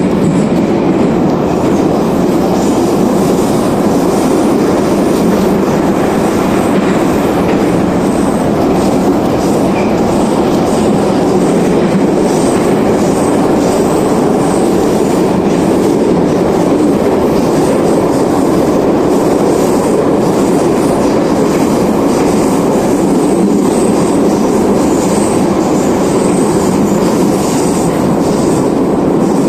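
Metro car of the 81-717 type running between stations, heard from inside the car: a loud, steady rumble of wheels on rails and running gear.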